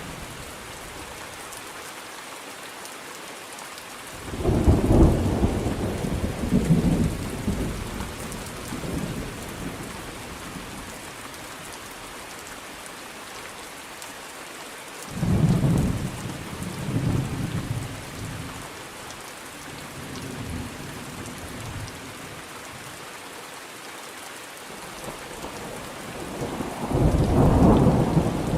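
Steady rain with thunder rolling in three times, at about four, fifteen and twenty-seven seconds in, each rumble swelling and dying away in uneven pulses over a few seconds.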